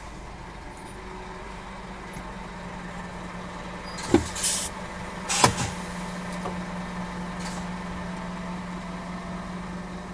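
Steady low vehicle hum, broken by two sharp knocks about four and five and a half seconds in, each followed by a short hiss.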